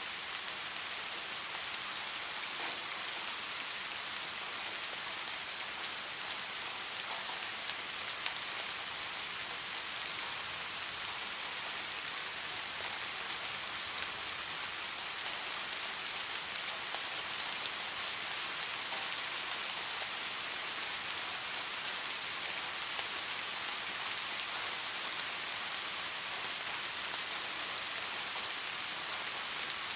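Steady rain falling on a surface: an even hiss of many drops, with an occasional faint sharper drop tick.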